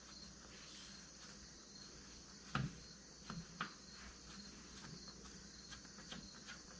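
Quiet workshop air with a faint steady high hiss, and a few light clicks of metal parts or tools being handled: one about two and a half seconds in, two more about a second later.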